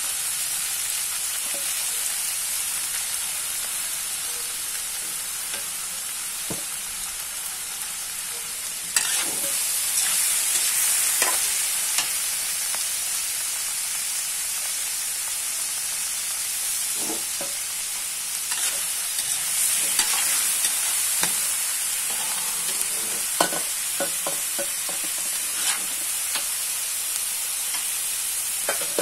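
Chicken liver, chicken and onions sizzling in a large metal wok, a steady frying hiss that grows louder about nine seconds in. A metal spatula stirring makes scattered scrapes and clicks against the pan.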